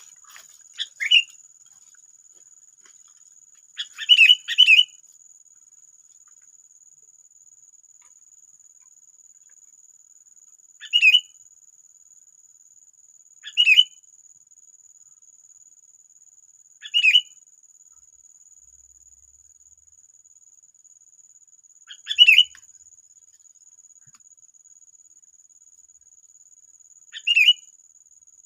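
Sooty-headed bulbul giving short, sharp calls every few seconds, one of them a quick run of three notes, over a steady high insect drone.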